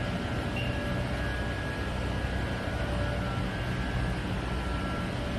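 Yuanda 1-ton gas boiler running: a steady, even machine noise with a low hum underneath and a few faint steady tones.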